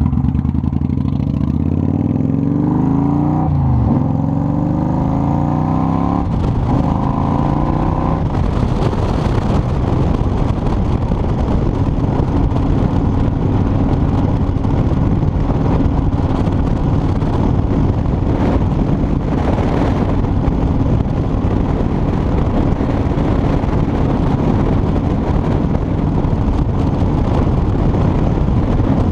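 Motorcycle engine accelerating through the gears, its pitch climbing and dropping at each shift, about four and six seconds in. From about eight seconds on, a steady wind rush on the microphone at speed drowns most of the engine.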